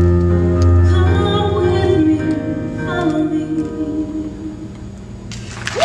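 A woman singing the closing notes of a song over instrumental backing, the music dying away; just before the end, applause and a whoop break out.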